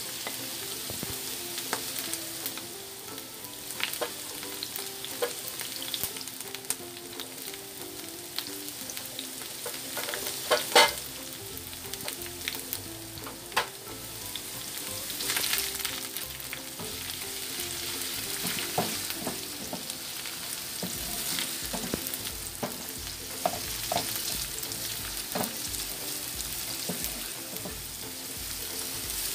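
Onion, garlic and ginger sizzling in hot oil in a frying pan, with a wooden spoon now and then scraping and knocking against the pan and bowl, the loudest knock about eleven seconds in.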